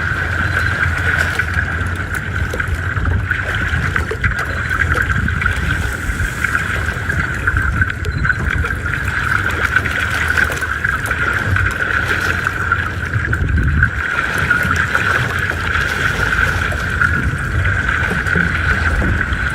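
Boat motor running steadily, with a constant high-pitched drone over the low rumble.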